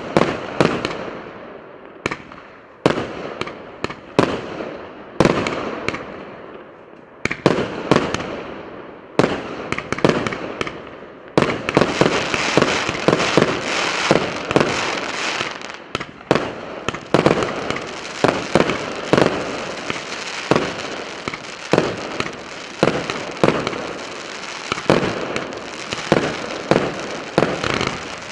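A 72-shot, 1-inch consumer fireworks cake firing. For the first eleven seconds or so, shots come about once a second, each a sharp bang followed by a fading tail of sound. After that the shots come faster and run together without a break.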